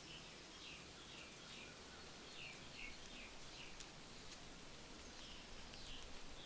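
Faint bird chirping: a run of short, falling chirps, two or three a second, which pauses about halfway through and then starts again. A few light ticks sound during the pause.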